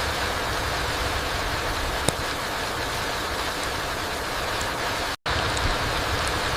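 Steady rain falling on a forest floor, an even hiss with a low rumble beneath it. One sharp drop-like tick stands out about two seconds in, and the sound cuts out completely for a split second a little after five seconds.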